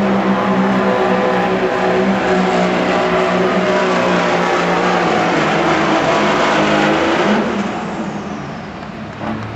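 Diesel pulling truck's engine running hard under load on a pull. It backs off about seven seconds in and gets quieter.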